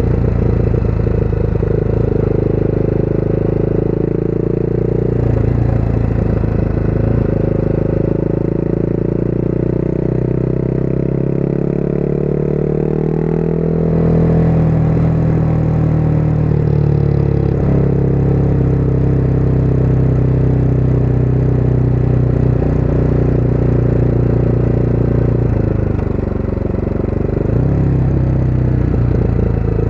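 Motorcycle engine running under way with wind rushing past the rider. The engine note climbs in pitch for several seconds, drops about halfway through, and dips briefly in loudness near the end.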